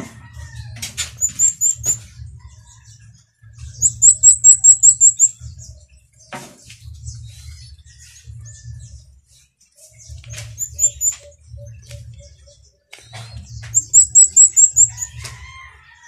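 Birds chirping: quick runs of high, thin chirps come four times, loudest about four and fourteen seconds in, over an on-and-off low rumble.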